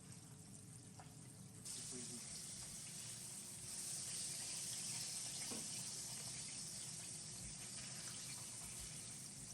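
Kitchen tap turned on about two seconds in, water running steadily, with the rush growing stronger a couple of seconds later.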